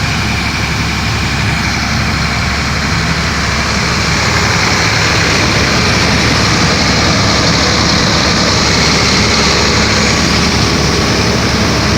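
Heavy vehicle engine idling steadily with a low hum, growing a little louder over the first few seconds.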